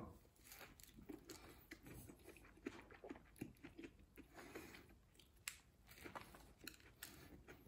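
Faint biting and chewing of a McChicken sandwich, a soft bun with breaded chicken and lettuce, with small mouth clicks and smacks scattered throughout.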